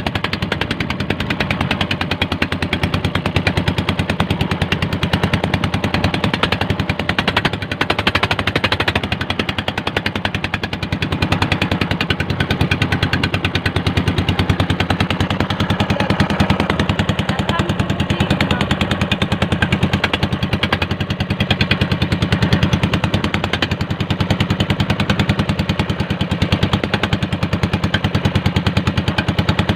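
Engine of a motorized bangka (outrigger boat) running steadily, its exhaust beating in a rapid, even popping.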